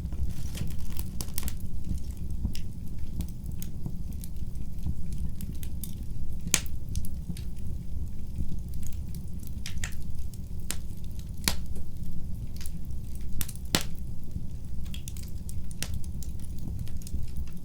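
Wood fire in a fireplace crackling: irregular sharp pops and snaps over a steady low rumble of the flames, with a few louder pops.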